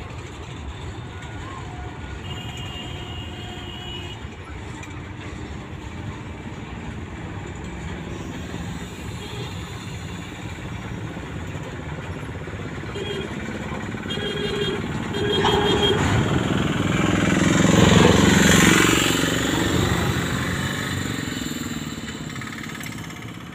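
Freight train of covered goods wagons rolling slowly past with a steady rumble of wheels on rails. About three quarters of the way through, a louder noise swells up and fades again over a few seconds, with a few short tones just before it.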